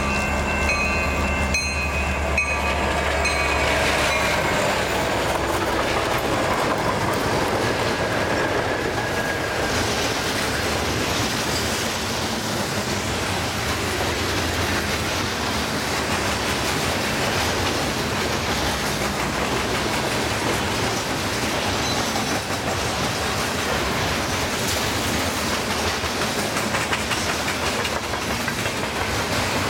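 Level-crossing bell ringing for the first couple of seconds as the SD40-2F diesel locomotives' engines drone past. Then a long train of loaded grain hopper cars rolls by close at speed, a steady rumble with wheels clicking over the rail joints.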